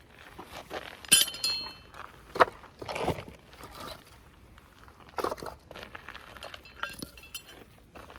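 Hard objects handled at close range: a sharp clink with a ringing tone about a second in, duller knocks and rustling, then lighter ringing clinks near the end.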